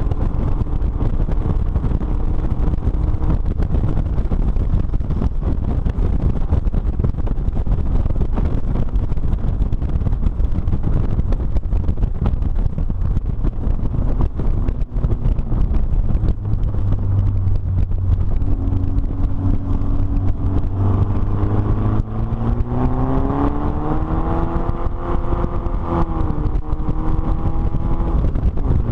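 Onboard sound of a Nash Metropolitan race car's four-cylinder engine running at speed, under heavy wind buffeting on the microphone in the open cockpit. The engine note climbs steadily from about two-thirds of the way through, then drops abruptly near the end.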